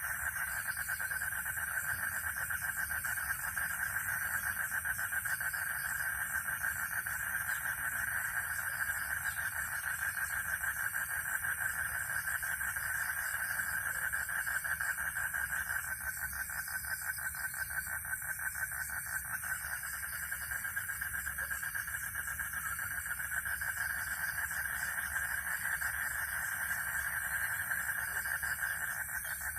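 Frogs and crickets calling together in a dense chorus: a rapid, steady pulsing trill with a thin, continuous high-pitched insect buzz above it.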